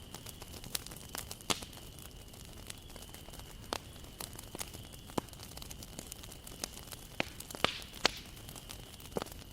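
Wood fire crackling: scattered sharp pops and snaps over a low steady hiss, a cluster of louder pops near the end.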